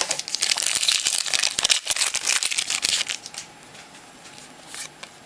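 Foil wrapper of a football trading card pack crinkling and tearing as it is opened: a dense run of crackles for about three seconds, then quieter handling.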